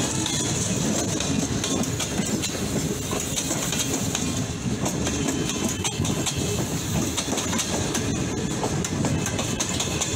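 Pakistan Railways passenger coaches rolling slowly past close by: a steady rumble of steel wheels on the rails, with irregular clicks and knocks from the wheels and rail joints over a constant hiss.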